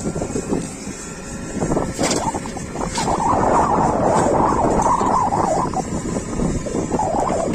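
JCB 3DX backhoe loader's diesel engine running as the machine works, getting louder about three seconds in.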